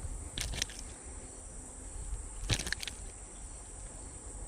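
Steady high-pitched chorus of insects trilling, with a few sharp clicks about half a second in and a louder cluster of clicks a little past the middle.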